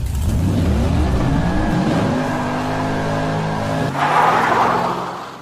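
Car engine accelerating hard, its pitch rising over the first couple of seconds and then holding, with a rush of noise about four seconds in before the sound fades near the end.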